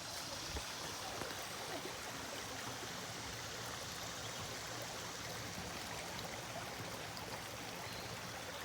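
A creek running below a footbridge: a steady, even rush of flowing water.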